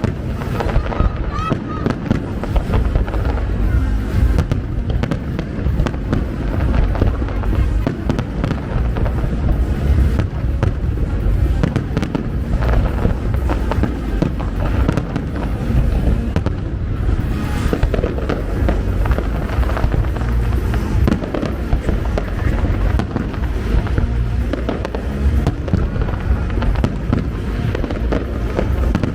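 Fireworks display: a dense, continuous barrage of overlapping bangs and crackles from bursting shells, with no pause, over music.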